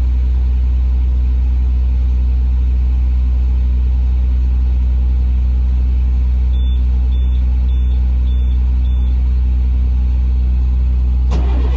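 International DT466 inline-six diesel in a 2005 IC CE300 school bus idling steadily after a cold start. Five short high beeps sound about two-thirds of the way through, and a loud hiss starts just before the end.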